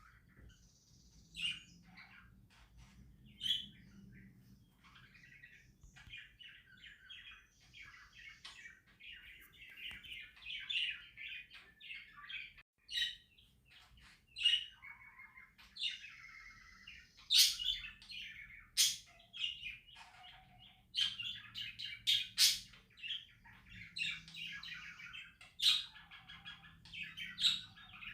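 Budgerigars chirping and warbling: a few sharp chirps at first, then continuous warbled chatter that grows busier and louder in the second half.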